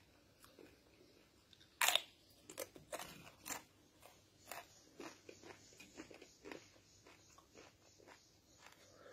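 Corn chips being bitten and chewed: one loud crunch about two seconds in, then a run of smaller crunches, roughly two a second, as they are chewed.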